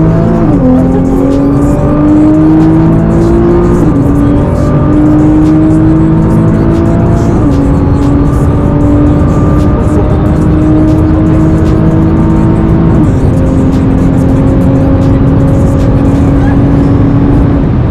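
Nissan GT-R Nismo's twin-turbo V6 under full acceleration, pulling up through the gears. The engine pitch climbs steadily in each gear and drops at each upshift, about one, four, seven and a half and thirteen seconds in, each gear held longer than the last.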